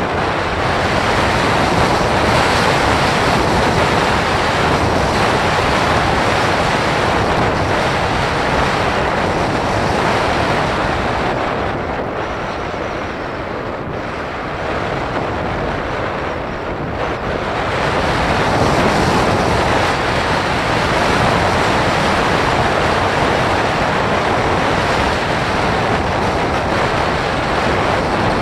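Wind rushing over the microphone of a camera carried aloft by a Bird of Time model sailplane in flight: a steady noise with no motor hum, easing for a few seconds around the middle.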